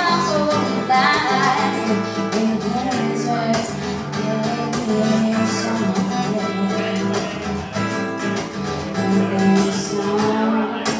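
Acoustic guitar strummed with a voice singing over it.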